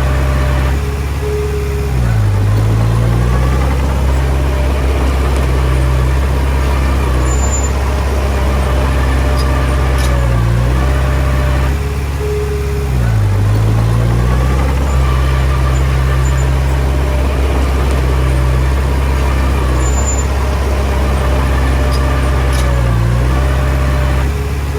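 Komatsu D20P bulldozer's diesel engine running under load, its pitch dipping briefly about every eleven seconds, three times in all, before picking up again.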